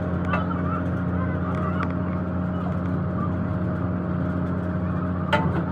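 A machine running steadily at constant speed, a low even hum, with brief wavering squeaks and a few light clicks over it and one sharp knock about five seconds in.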